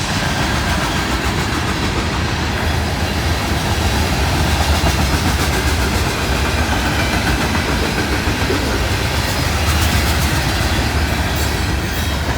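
Freight train of loaded rock cars rolling past at speed: a steady rumble of steel wheels on the rails, with a run of wheel clicks over rail joints near the end.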